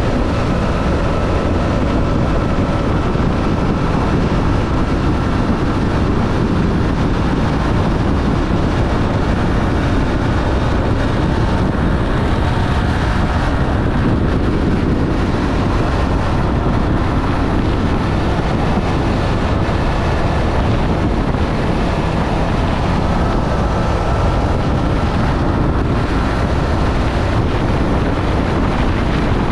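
Triumph Street Triple's inline three-cylinder engine running steadily under way, with wind rushing over the microphone.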